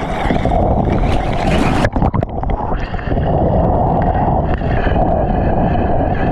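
Wind buffeting an action camera's microphone over the rush of water, loud and steady, with an abrupt change in the sound about two seconds in.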